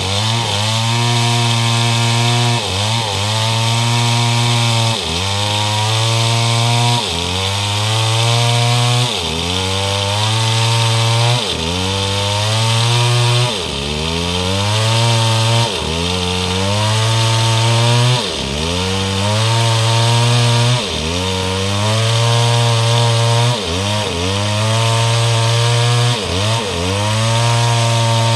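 STIHL MS 382 two-stroke chainsaw with a 30-inch bar sawing mahogany lengthwise into rafters, running hard. The engine's pitch drops sharply and climbs back about every two seconds.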